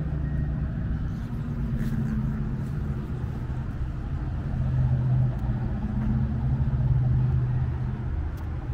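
A car engine idling with a steady low rumble, a little louder from about five seconds in.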